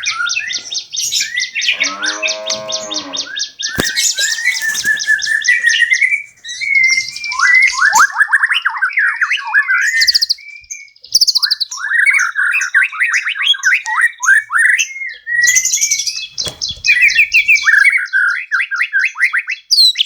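Songbirds singing busily, rapid high trills overlapping with quick chirps and warbles, with one lower, drawn-out call about two seconds in.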